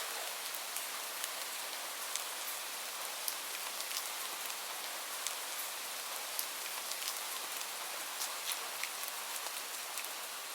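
Steady rain: a dense, even hiss with many individual drops ticking sharply on a surface.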